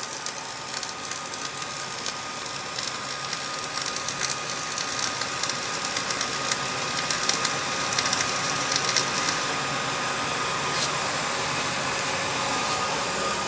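Flux-core wire-feed welding arc from a Millermatic 255, running a steady bead: a dense, even crackle with fine pops and a faint steady high tone under it, slowly getting a little louder. The even, unbroken crackle is what the welder calls sounding good, a sign of a stable arc.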